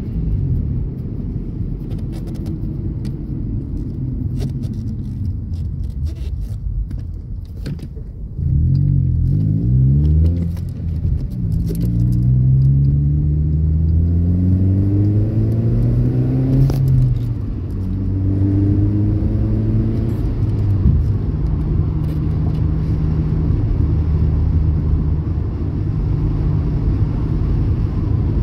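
Car engine of a manual-gearbox car heard from the footwell, running steadily, then pulling up through the gears: its pitch rises three times, about eight, twelve and eighteen seconds in, falling back between rises as each gear is changed, then settles to steady running.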